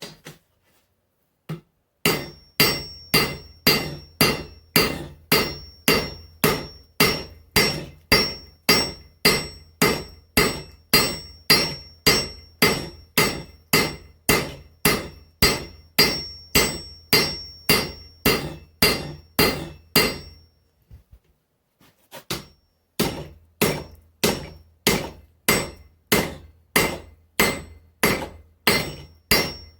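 Blacksmith's hammer striking hot mild steel on an anvil in a steady rhythm, about two to three blows a second, with a high ring from the anvil, as the bar is thinned down for the axe eye. The hammering pauses for about two seconds past the middle, then starts again.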